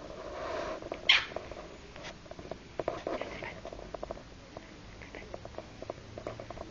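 A dog moving about close to the microphone: small scattered clicks, taps and rustles, with one sharper click about a second in.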